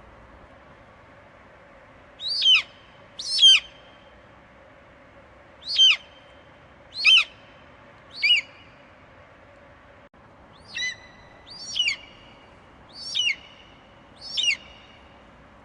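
An eagle screeching: nine short, high, piercing calls, each falling sharply in pitch, spaced about a second or so apart and starting about two seconds in. A steady faint hiss runs beneath.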